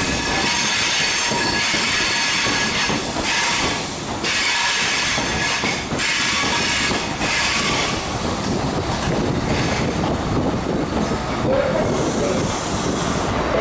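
CrossCountry High Speed Train (InterCity 125) rolling slowly past on curved track, its steel wheels squealing against the rails and clicking over rail joints, with the rear Class 43 diesel power car coming by near the end.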